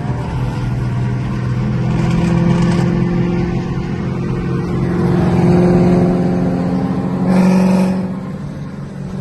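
Car engine running hard under acceleration, its pitch climbing slowly, with a brief louder surge about seven and a half seconds in.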